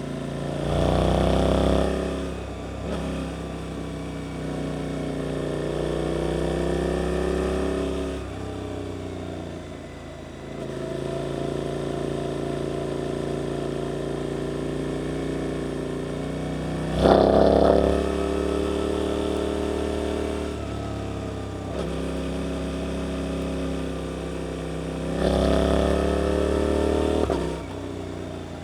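Suzuki GSX-8S parallel-twin engine through an Arrows aftermarket exhaust, under way on the road. It swells loudly as the throttle opens about a second in, again about seventeen seconds in and near the end, with steadier running and the throttle easing off between.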